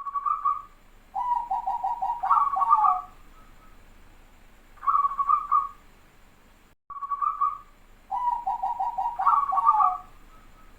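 Zebra dove (perkutut) cooing. A short coo, then a longer phrase of rapid staccato notes, then another short coo, the song repeating about every seven seconds.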